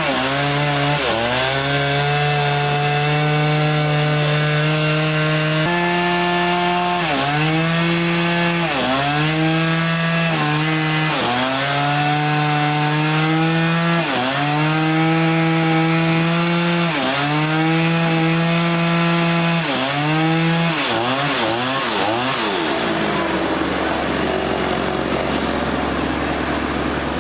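Sawmill saw cutting through a log, its motor note sagging under load and recovering again and again. Near the end the pitched note breaks up into a rougher, noisier sound.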